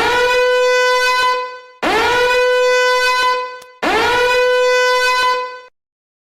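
Three long horn toots, each sliding up quickly to the same steady pitch and held for about a second and a half, then cut off.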